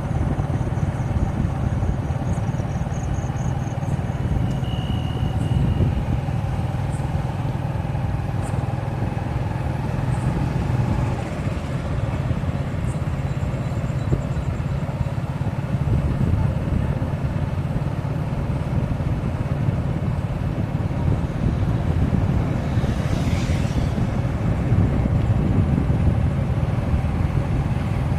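Motorcycle running steadily on a highway with continuous road and wind noise.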